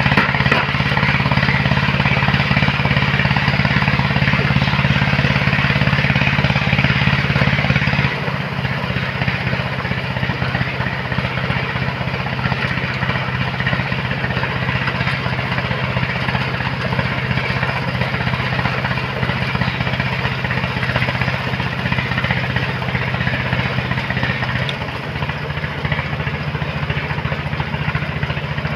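Engine of a sand-loading machine running steadily, with a hiss of sand or water over it. Its level drops about eight seconds in, and its note shifts slightly near the end as the engine load changes.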